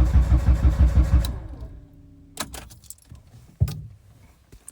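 An old car's starter cranking the engine in a rapid, even beat, which stops about a second and a half in without the engine catching: it turns over but does not fire. A couple of sharp clicks follow.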